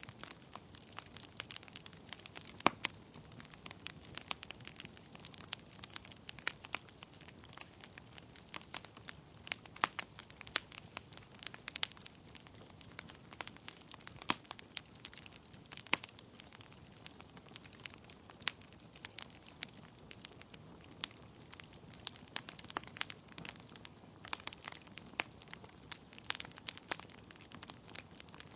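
Wood fire burning in a fireplace: logs crackling with irregular sharp pops over a soft hiss of flames.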